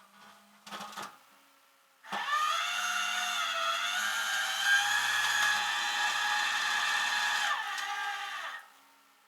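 A small electric motor whining, blipped twice briefly, then run steadily for about six seconds before winding down.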